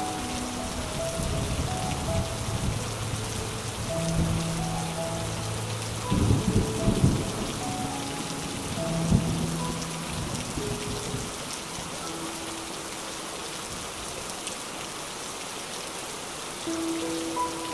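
Steady rain falling on forest foliage, with a low rumble about six seconds in and another just after nine seconds. Soft background music of held notes plays underneath.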